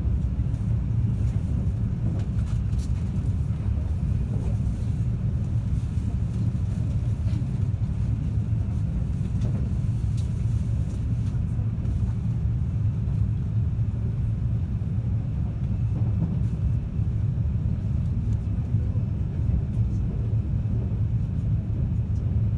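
Running noise of a 521 series electric multiple unit heard from inside the carriage: a steady low rumble of the wheels on the rails and the moving train.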